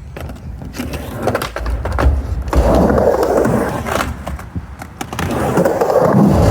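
Skateboard rolling back and forth on a mini ramp: the wheel rumble swells and fades twice as the board passes through the transitions, with sharp clicks and knocks from the board.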